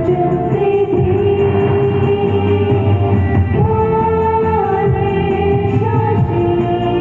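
A Hindi song of blessing: a voice singing long held notes over instrumental accompaniment.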